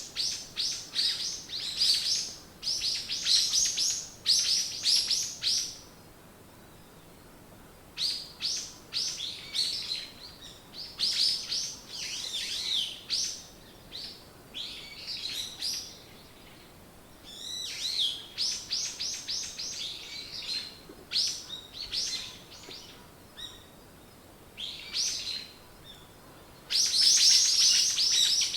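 Songbirds chirping in bouts of rapid, high notes a few seconds long, with short pauses between bouts.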